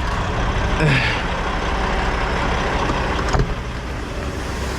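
Semi-truck diesel engine idling with a steady low rumble. There is a short falling vocal sound about a second in and a single click at about three and a half seconds.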